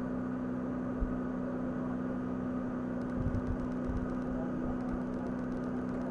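Houseboat engine running steadily under way, an even hum with a strong steady tone.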